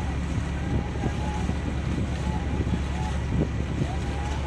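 Boat engine running steadily as a low, even drone, with faint voices over it.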